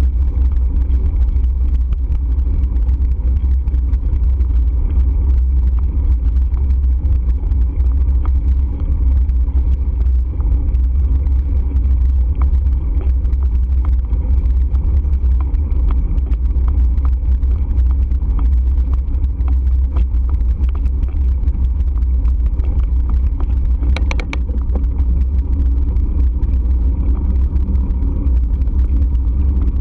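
Steady low rumble of wind buffeting and road noise on a camera riding along on a moving bike. A brief sharp sound cuts through near the end.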